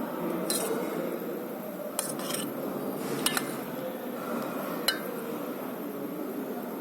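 Cutlery and dishes clinking during a meal: a handful of separate sharp clinks over a steady background hum.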